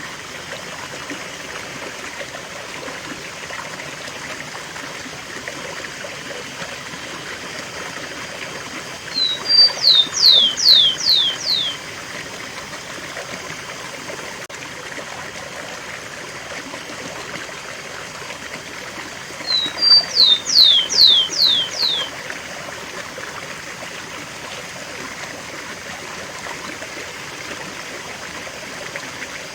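Rufous-collared sparrow (tico-tico) singing its 'cemitério' song twice, about ten seconds apart: two short high notes, then a quick run of four or five falling slurred whistles. Under it runs a steady rush of waterfall water.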